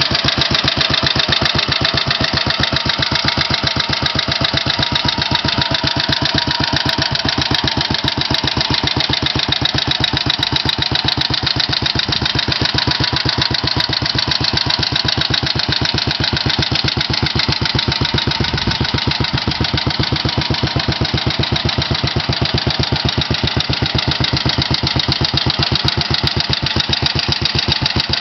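BMW R35's single-cylinder four-stroke engine idling steadily on its first run, each firing stroke heard as a separate even beat.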